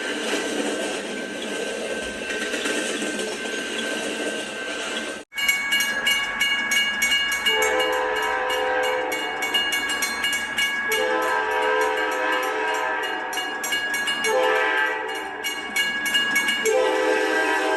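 Amtrak P42DC diesel locomotive's air horn sounding the grade-crossing signal: two long blasts, a short one, then a long one, over rolling wheel and rail noise. Before it, about five seconds in, the train noise cuts off abruptly.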